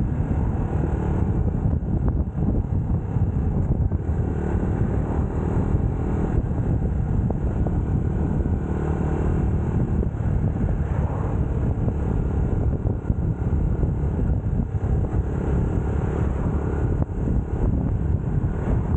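UM Scrambler X motorcycle engine running steadily while riding at an even pace.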